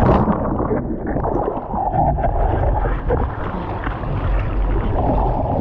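Water and wind rushing over the microphone in the surf: a steady low rumble with no clear separate events.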